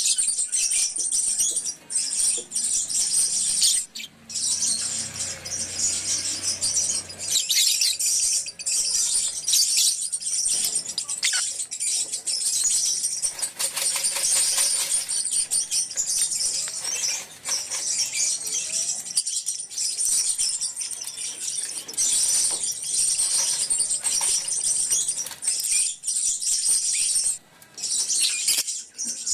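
A colony of lovebirds chattering and chirping together in an aviary, a dense, continuous, high-pitched chorus with only brief pauses.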